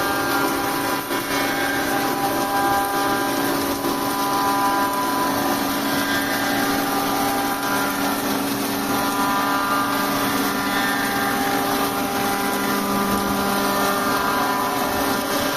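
Workshop machine running steadily: an even hum made of several steady tones, the higher ones swelling and fading now and then.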